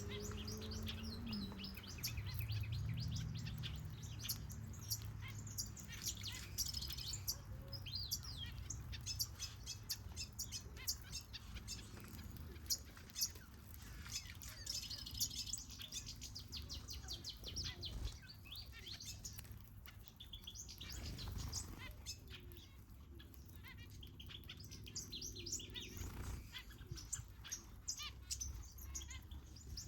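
A mixed flock of aviary finches and softbills chirping and twittering, many short, high chirps overlapping, over a low, steady rumble.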